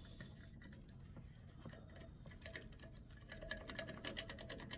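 Faint, irregular small clicks and scratches from hot wax being scrubbed into a walnut wand, growing busier near the end.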